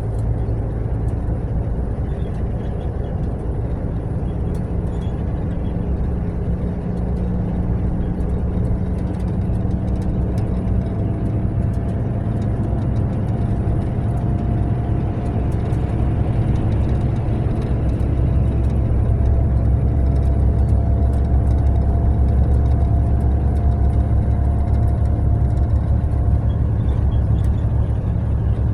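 Mercedes-Benz long-distance coach running on the road: a steady low drone of engine and tyres that deepens and grows a little louder about two-thirds of the way through, with a faint steady whine over the middle stretch.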